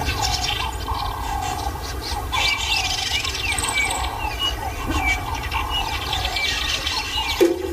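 Night bush chorus: many overlapping short chirping calls from small animals, over a steady low rumble.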